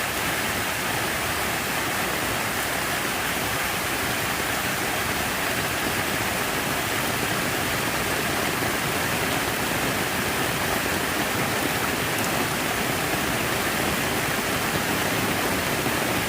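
Steady, unbroken rush of falling and splashing water.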